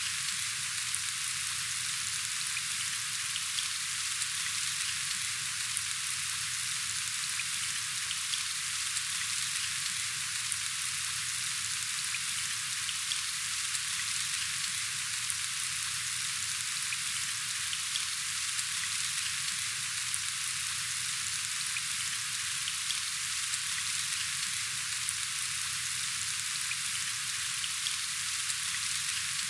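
Steady rain falling, an even hiss with a fine patter of individual drops.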